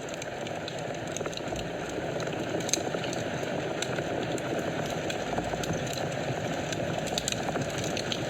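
Wood fire burning in a fireplace: a steady low rush of flames with scattered sharp crackles and pops, one louder pop about a third of the way in and a quick cluster near the end.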